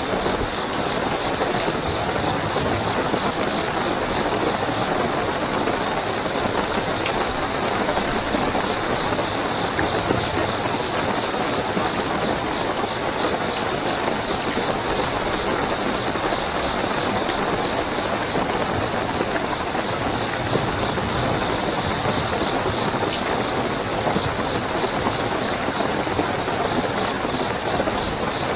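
Steady heavy rainfall, an even hiss of drops without let-up, with crickets trilling continuously at a high, unchanging pitch over it.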